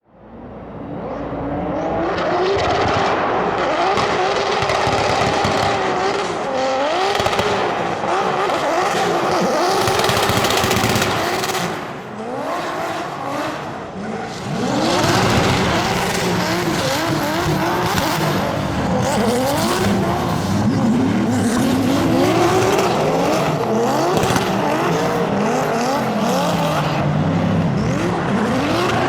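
BMW E36 drift car's engine revving hard, its pitch sweeping up and down again and again through a drift run, over the hiss and squeal of spinning tyres. It eases off briefly about twelve seconds in, then comes back on full.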